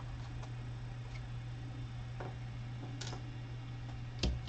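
Steady low hum with a few faint, scattered clicks, then sharper clicks near the end like keys starting to be typed on a computer keyboard.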